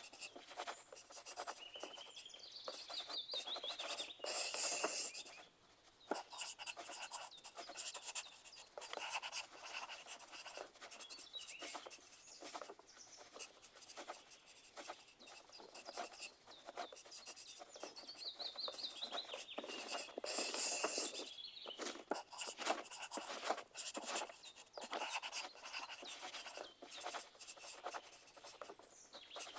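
Pencil writing on paper: a steady run of quick scratchy strokes and light taps, with two louder, denser stretches of scratching, about four seconds in and again about twenty seconds in.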